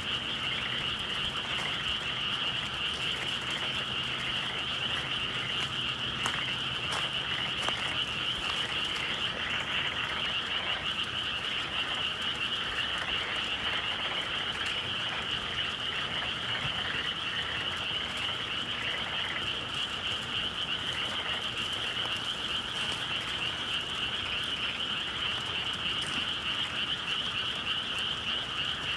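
Chorus of many frogs calling at once, a dense, unbroken high-pitched din that stays steady throughout.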